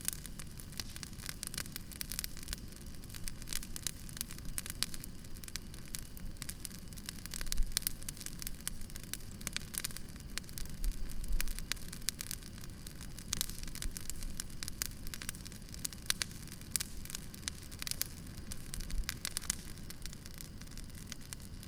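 Wood campfire burning, with a constant crackle of small sharp pops over a low rumble of flames and a few louder pops.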